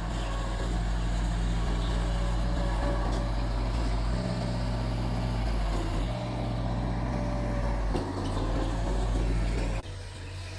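Mitsubishi bulldozer's diesel engine running steadily while working. It cuts off suddenly near the end, leaving a quieter background.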